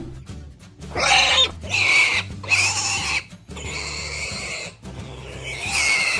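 Pig sound effect: a run of about five harsh pig squeals and grunts, starting about a second in.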